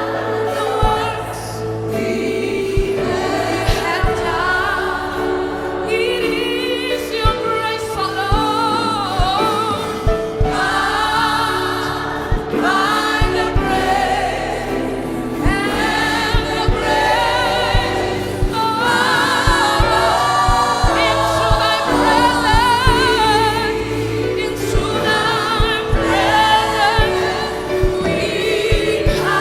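Gospel music: a choir singing over instruments with a steady beat.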